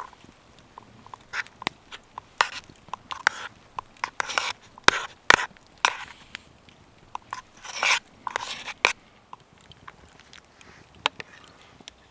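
Close, irregular crunching and sharp clicks, busiest in the middle and thinning out near the end.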